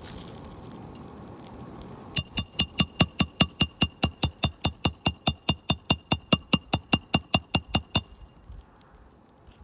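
Hammer rapidly tapping a roofing nail into a shingle: about five sharp metallic strikes a second, each with a bright ring. The strikes start about two seconds in and stop near the end.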